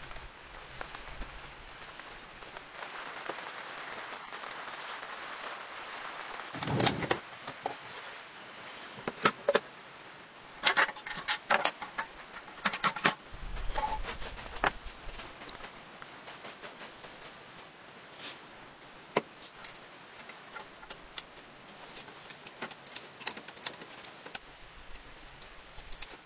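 Steady hiss of heavy rain on a tent, with metal camp gear being handled: a low thud about seven seconds in, then a run of sharp metallic clicks and clatters in the middle and a few scattered ones later.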